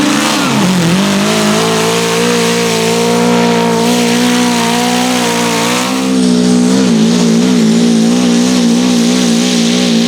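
Pulling tractor's engine running hard at high revs while dragging the weight sled. The pitch dips and climbs back in the first second, holds steady, then wavers slightly from about six seconds in.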